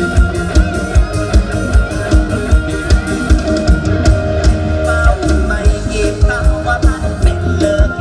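Live band playing an instrumental passage of Isan mor lam / luk thung music: drum kit keeping a steady beat of about three hits a second, with guitar and sustained low bass notes.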